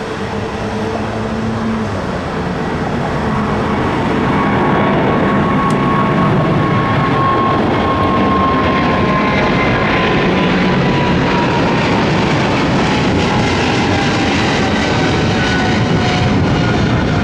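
Jet airliner's engines running loudly as it passes, growing louder over the first few seconds and then holding, with an engine whine slowly falling in pitch.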